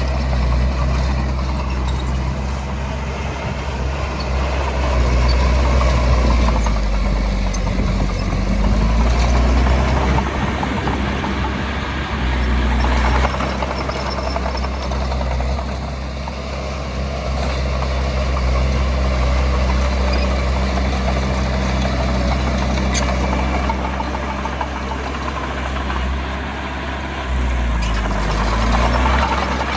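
Diesel engine of heavy earthmoving machinery running steadily, its pitch rising and falling as it revs around a third of the way in and again near the end.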